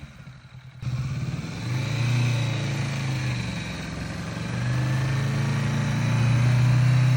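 Kawasaki motorcycle engine running at low revs during slow-speed riding, cutting in abruptly about a second in and growing louder over the last few seconds.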